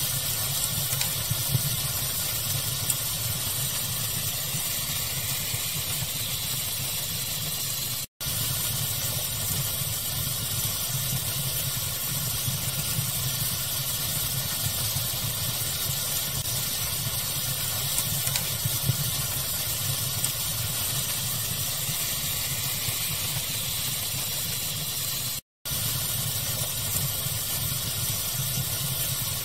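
Steady pink-noise hiss blended with a crackling fire, small scattered pops over the even rush. The sound cuts out completely for a split second twice, about eight seconds in and near twenty-five seconds in.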